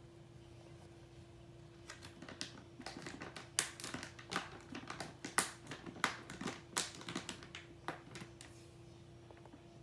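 Hamster crunching and chewing food: rapid, irregular crisp cracks and clicks that start about two seconds in and stop about a second before the end.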